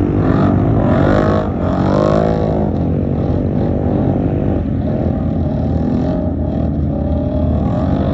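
Off-road racing engines running under a constant low rumble, revving up and down in pitch during the first couple of seconds and again near the end.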